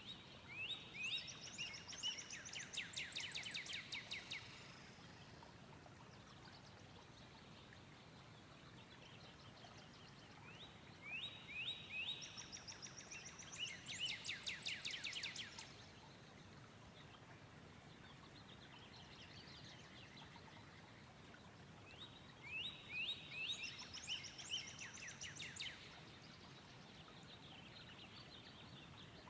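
A songbird singing the same song three times, about ten seconds apart. Each song lasts about four seconds: a few quick slurred notes, then a fast high trill. Faint steady background noise runs underneath.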